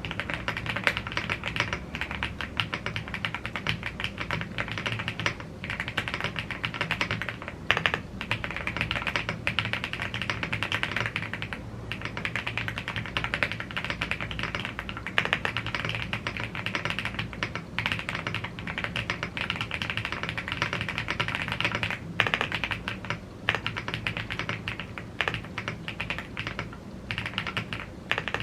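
Fast, continuous typing on a gasket-mounted aluminium mechanical keyboard (YUNZII AL75) with Blue Grey tactile switches and double-shot PBT Cherry-profile keycaps. It is a steady stream of keystroke clacks with a few brief pauses.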